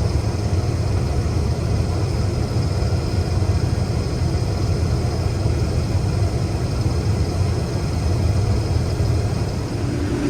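Heavy farm vehicle's engine running steadily, a low even drone.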